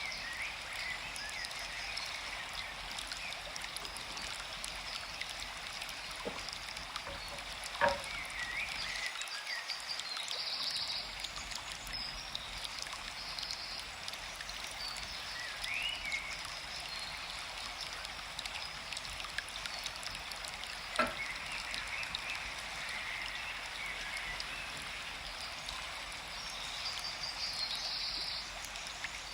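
Forest ambience: the steady rush of a stream with short chirping calls scattered over it. Two sharp clicks stand out, one about 8 seconds in and one about 21 seconds in.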